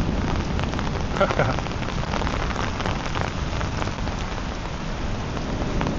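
Heavy tropical downpour, dense rain pattering close to the microphone, with drops striking an umbrella overhead.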